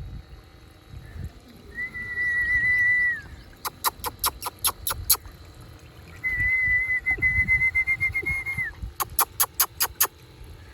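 Pet parrot whistling: two long, level whistles with a slight wobble, each followed by a quick run of sharp clicks, about five a second.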